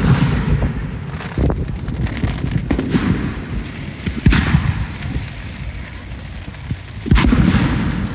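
Aerial fireworks bursting in a series of booms a second or two apart, each trailing off in a low rumble and crackle.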